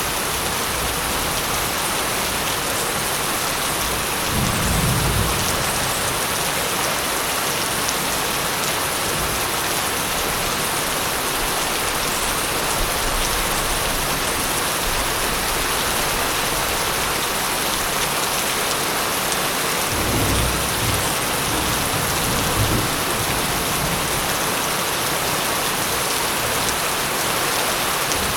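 Steady rain hissing, with two low rumbles of thunder: one about four seconds in, another from about twenty seconds in that lasts a few seconds.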